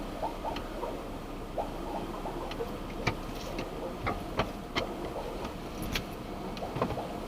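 Low steady hum of a car idling, heard from inside the cabin, with scattered light clicks and taps at irregular intervals.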